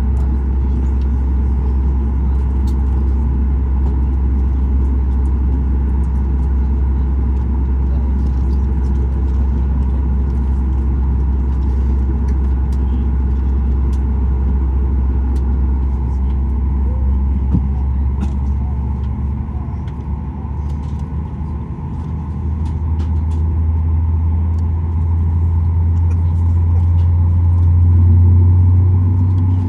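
Boeing 737 MAX 8's CFM LEAP-1B engine heard from inside the cabin during start: a steady low drone while the engine is turned on bleed air in its extended bowed rotor motoring phase. About two-thirds of the way through the drone dips, then a stronger hum builds and is loudest just before the end.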